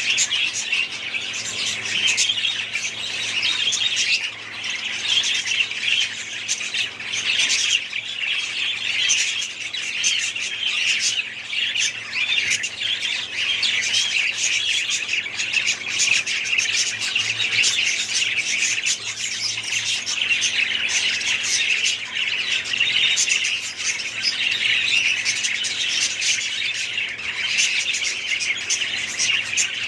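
Many budgerigars and other small parrots chattering and calling together, a dense unbroken mass of overlapping high chirps with no pause.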